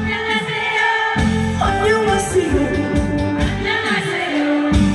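A singer performing live over amplified band backing with a steady beat. The low beat drops out briefly about a second in and again near the end.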